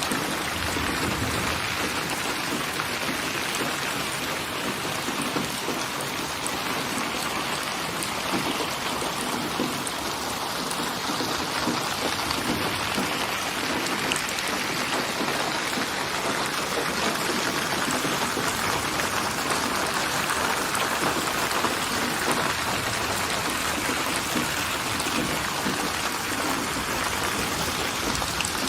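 Steady rain falling, with the patter of drops hitting a surface and a constant hiss.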